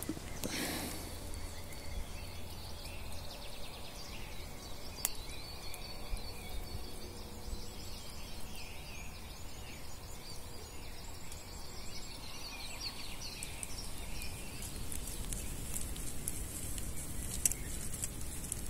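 Birds singing and chirping over a steady outdoor background, with a couple of sharp clicks, one about five seconds in and one near the end.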